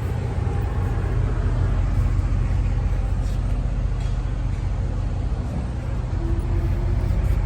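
A 26 ft box truck running, its engine and road noise a steady low rumble.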